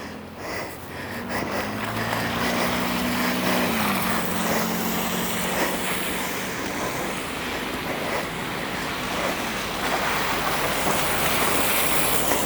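A minivan driving past close by: a low engine hum that drops in pitch about four seconds in as it passes, over a steady hiss of tyres on the street, with some wind on the microphone.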